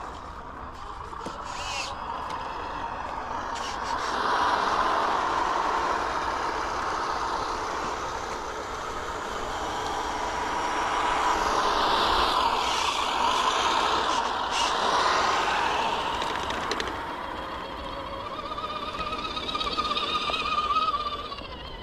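Small electric motor and gearbox of a 1/12-scale RC military truck whining as it drives over rough ground, the pitch rising and falling again and again.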